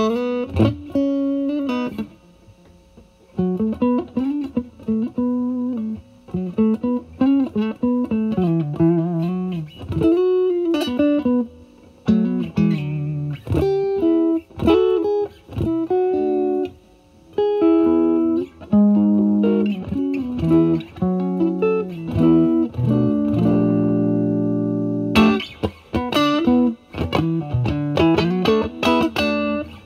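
Fender Stratocaster played through a Vertex Steel String Clean Drive MK1 overdrive pedal at full gain, into a Marshall Valvestate amp's clean channel. Bluesy lead lines of single notes with string bends and short pauses, then a held chord near the end.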